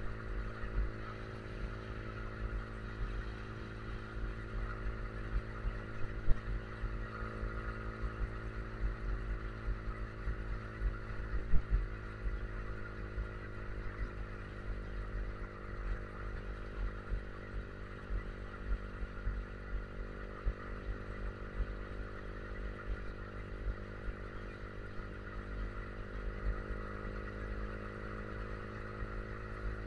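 Yamaha R15 V3's 155 cc single-cylinder engine running at a steady cruising speed, its pitch holding almost constant, with wind buffeting the microphone at road speed. Two short sharp knocks stand out, about six and eleven seconds in.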